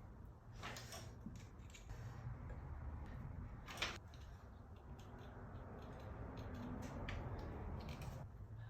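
Light clicks and knocks of parts and hand tools being handled, scattered and irregular, with one sharper click about four seconds in, over a low steady hum.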